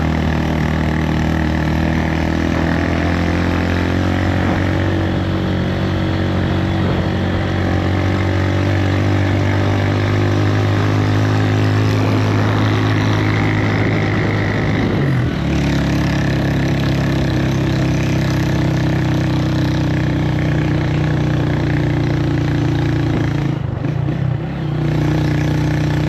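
Bus engine running, heard from on board; the engine note shifts about halfway through and briefly dips near the end, as with gear changes.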